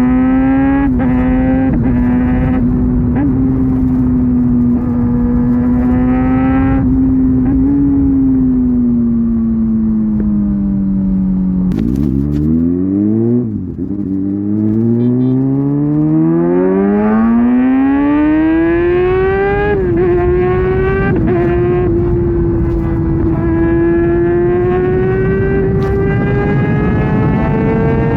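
Kawasaki ZX-6R's inline-four engine through an SC-Project aftermarket exhaust at speed, held at steady high revs, then easing off with the pitch sinking. Around 12 to 13 seconds in the revs drop sharply and climb steeply in a hard pull until about 20 seconds, where a brief dip marks a gear change, and the pitch then rises gently again.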